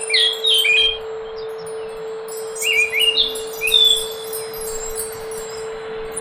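Anis macan (scaly thrush) singing: two phrases of clear, stepped, chime-like whistled notes, one at the start and one about three seconds in, over a steady hum.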